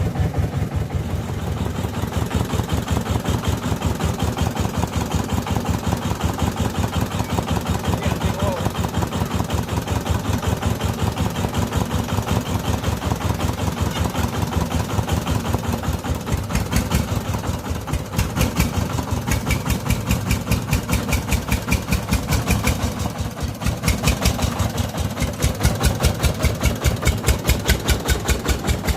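Diesel engine of a mobile rice-milling machine running steadily with a rapid, even beat. About halfway through, a higher hiss joins it.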